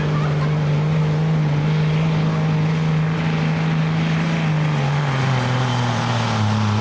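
Work stock diesel pickup truck engine running hard under load while pulling the sled, at a steady high pitch. The engine note drops about two-thirds of the way through as the revs fall.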